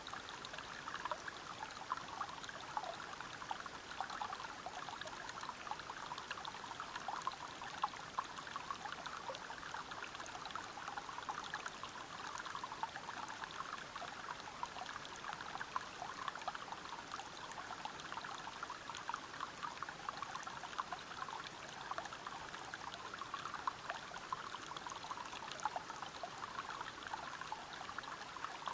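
Small waterfall and river water flowing and splashing steadily over rocks, a constant babbling rush with many fine splashes.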